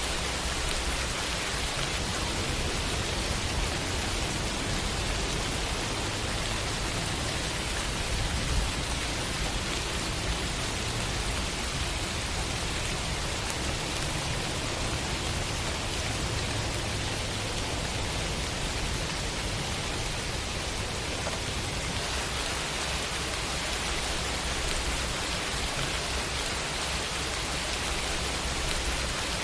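Steady rain falling, an even hiss with a low rumble underneath, and one brief louder drop or tap about eight and a half seconds in.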